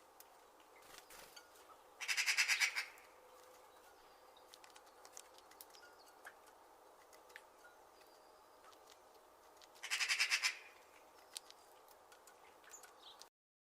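A bird's rapid rattling call, heard twice, each time under a second long, over a quiet background with faint scattered ticks. The sound cuts off just before the end.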